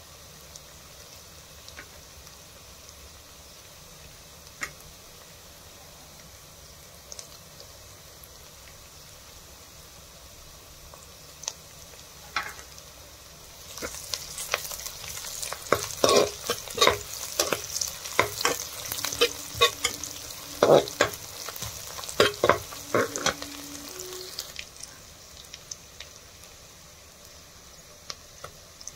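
Sliced onions and garlic sizzling gently in hot oil in a metal pan, with a few stray clicks. About halfway through, a steel spoon stirs and scrapes against the pan for around ten seconds with loud, rapid clatter, then the quiet sizzle returns.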